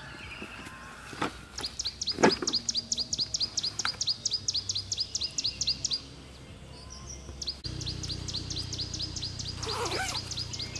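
A bird calling a rapid series of short, high notes, each falling in pitch, about five a second; the series breaks off about two-thirds through and then resumes. A single sharp knock sounds about two seconds in.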